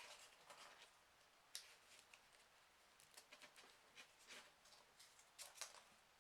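Near silence with faint, scattered paper rustles and soft ticks as folded 3D origami paper units are slid onto the model.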